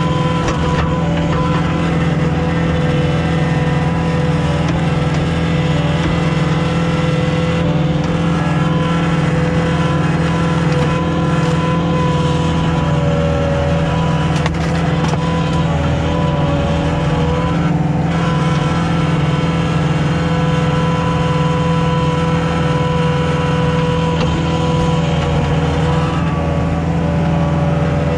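Komatsu CK30 skid steer's diesel engine running steadily while it works a log splitter, a constant even-pitched drone with no letup.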